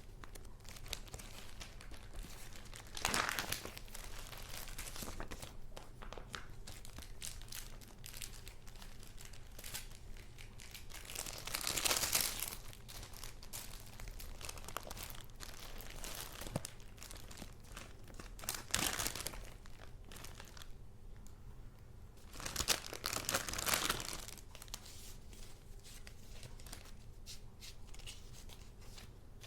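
Paper goods of a handmade junk journal being handled: paper and card rustling and crinkling, loudest in four short bursts, over a steady low hum.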